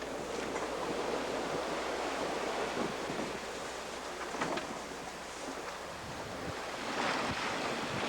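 Sea water rushing and splashing past a sailboat under way, with wind buffeting the microphone; the rush swells louder about seven seconds in.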